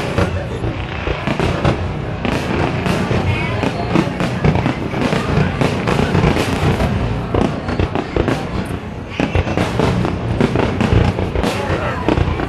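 Aerial fireworks display going off in quick succession: a near-continuous barrage of booming bursts and crackling, easing off briefly near the end before picking up again.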